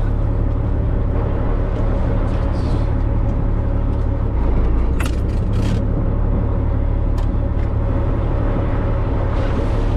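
Fishing boat's engine running with a steady low drone, with a few brief knocks around the middle.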